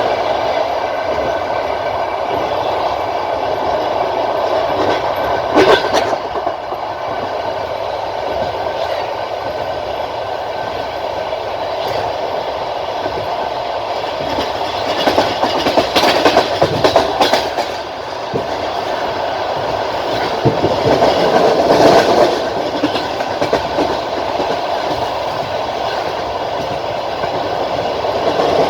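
Passenger train carriage running along the line, heard at a carriage window: a steady rumble of wheels on the rails. Sharp wheel clacks come about six seconds in and in a cluster around fifteen to seventeen seconds.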